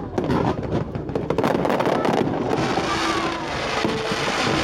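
Fireworks going off in quick succession: many sharp cracks and bangs overlapping without a break.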